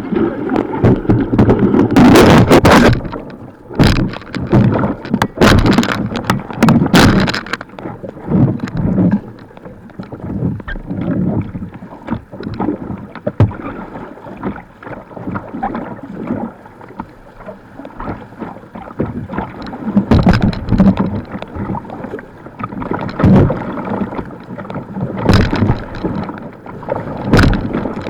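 A kayak running white water: rushing water throughout, broken by irregular loud splashes.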